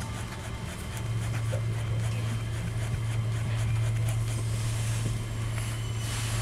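Inside the carriage of a moving Southeastern electric commuter train: a steady low hum and rumble that grows a little louder about a second in, with a brief hiss near the end.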